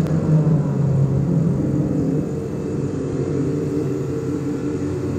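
Citroën 2CV air-cooled flat-twin race engine running steadily, with an even buzzing drone.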